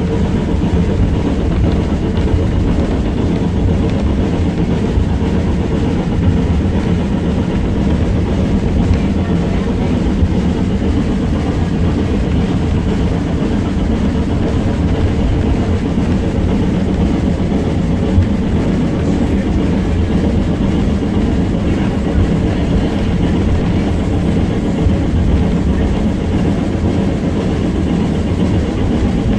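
Steady rumble of a moving railway carriage, heard from inside, its wheels running on the track, with a few sharp clicks now and then.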